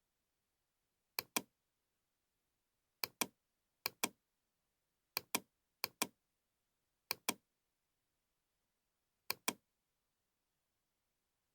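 Computer mouse double-clicking: seven pairs of sharp clicks at irregular intervals, with silence between them.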